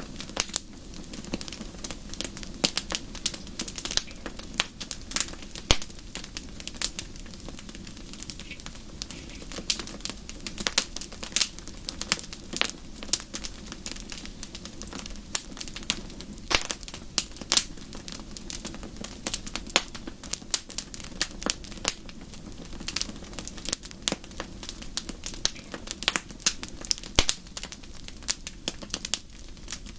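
Wood fire in a fireplace crackling and popping: frequent irregular sharp snaps over a steady low rumble of the burning fire.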